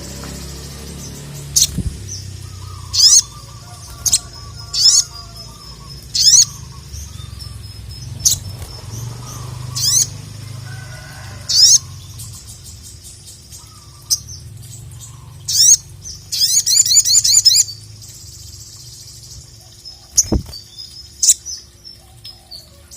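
Sogok ontong (sogon) songbird singing: short, sharp, high calls repeated every second or two, with a rapid chattering trill about two-thirds of the way through.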